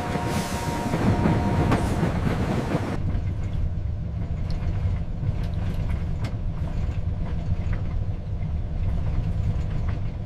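Steam locomotive on the move: a hissing rush with faint steady tones for about three seconds, then the sound changes abruptly to a low rumble with scattered clicks.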